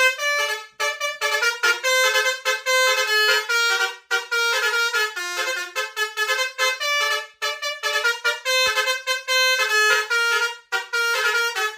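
Bus telolet horn, a multi-tone musical air horn, playing a fast tune of quickly changing notes with a few short breaks.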